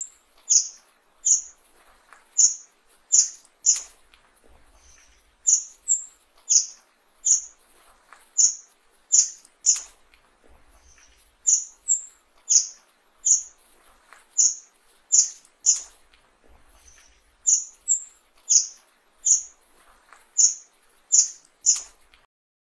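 Fire-tailed myzornis calling: short, very high chips in quick groups of six or seven, the same phrase repeating about every six seconds.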